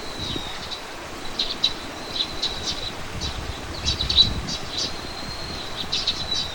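Songbirds chirping: many short, high chirps and thin whistled notes in quick runs, over a low rumble that swells about four seconds in.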